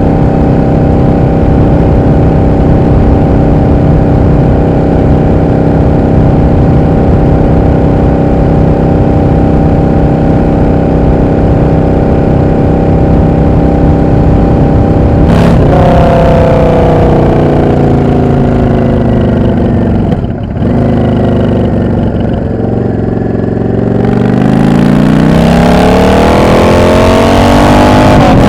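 Yamaha XVS 650 V-twin motorcycle engine running at steady revs on the move, then a sharp click about fifteen seconds in. The revs fall away for several seconds, with a brief break in the sound about twenty seconds in, then climb again near the end as the bike accelerates.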